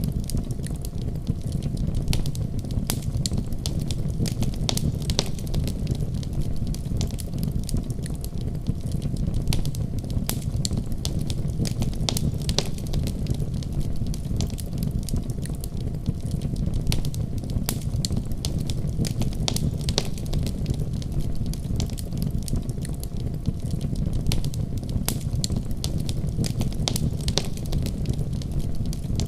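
Fire crackling in a fireplace: frequent irregular sharp pops and snaps over a steady low rumble of flames.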